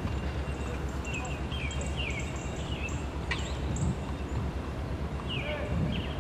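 Small birds chirping in quick, short rising and falling calls, in two clusters, over a steady low rumble, with one sharp tick about three seconds in.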